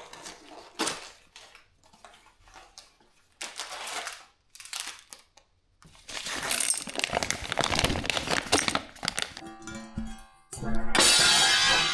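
Uneven bursts of crinkling and rattling, like a packet being handled and popcorn kernels poured into a pot. Plucked-string music comes in near the end.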